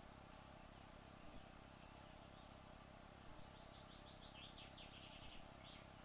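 Near silence with a steady faint hiss. From about three and a half seconds in, a faint run of rapid high-pitched chirps.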